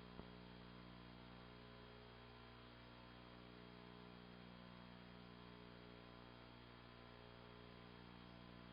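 Near silence apart from a steady low electrical hum, with a faint click right at the start.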